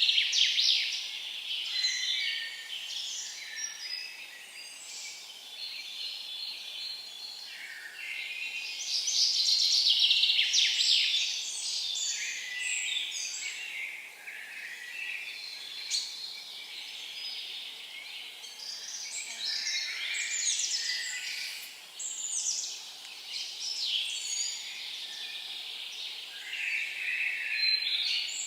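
Several songbirds singing at once, an overlapping chorus of quick trills, chirps and whistled notes with no pause, swelling loudest at the start and about ten seconds in.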